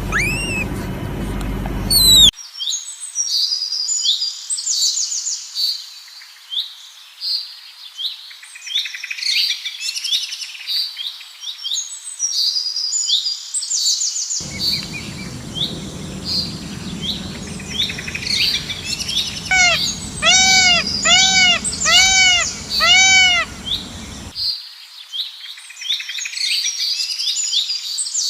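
Birds chirping and singing in quick high trills, in sections that change abruptly. Near the middle comes a run of about six louder, arching calls, evenly spaced about half a second apart.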